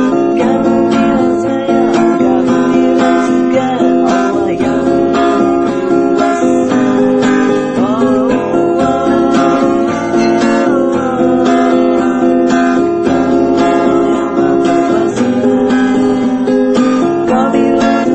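Acoustic guitar strumming chords steadily.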